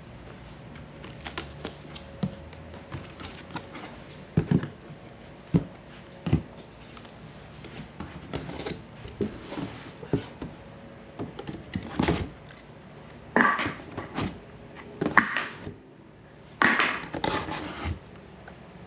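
Irregular knocks and thunks, with bursts of rustling in the second half, from handling new alloy wheels and their packaging.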